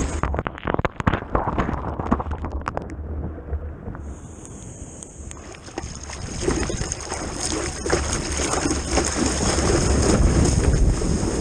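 Wind and rushing, splashing water against an action camera's microphone while surfing. It is muffled and crackling for the first few seconds, then becomes a steady, full hiss of wind and water with a rough low rumble.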